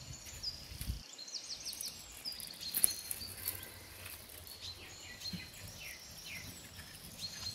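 Small birds chirping over and over in short, high calls against a faint steady hiss, with one sharp click about three seconds in.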